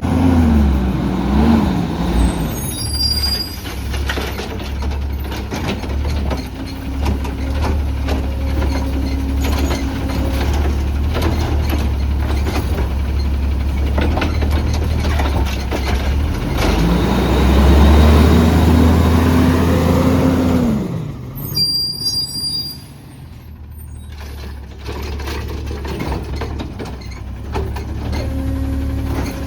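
CNG-powered Autocar ACX garbage truck with a Heil Rapid Rail automated side-loader running, the engine revving up and holding while the hydraulic arm cycles, then dropping back. Short air-brake hisses come twice, about three seconds in and again about twenty-two seconds in.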